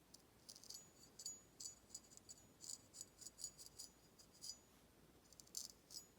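Straight razor edge making faint, irregular, crisp high-pitched ticks and light scrapes, several a second, with a short pause about four and a half seconds in.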